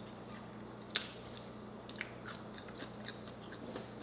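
Close-up eating sounds of someone eating seafood: quiet chewing with scattered short lip smacks and mouth clicks, the sharpest about a second in.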